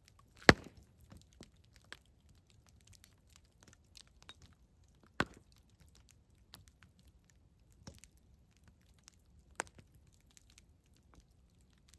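Wood campfire crackling, with scattered small snaps and three sharp pops: the loudest about half a second in, another about five seconds in, and one near the end.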